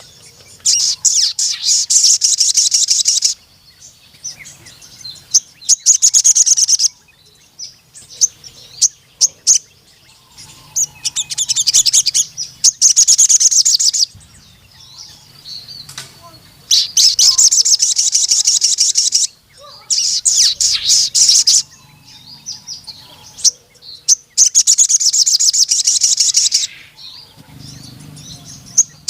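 Sogon sunbird singing loud, fast, high trilled song phrases of about two to three seconds each, about six times with short pauses between.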